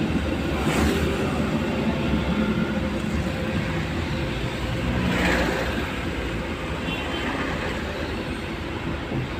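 Road traffic: a steady low vehicle rumble, with vehicles swishing past about a second in and again around five seconds in.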